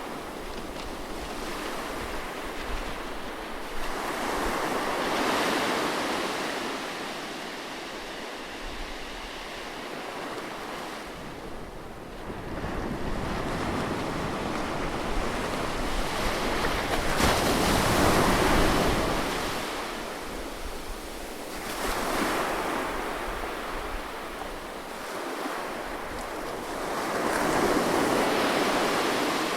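Ocean surf breaking and washing up a beach. The noise swells and falls with each wave, about four times, and the biggest wave comes a little past halfway.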